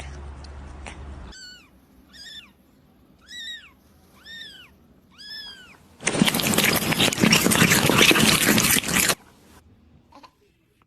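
A kitten meowing five times, about once a second, each call high and rising then falling. A loud, harsh noise of about three seconds follows.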